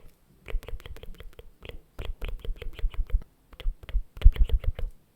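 Rapid, irregular clicks and taps close to the microphone, several a second, many with a dull low thud, loudest about four seconds in.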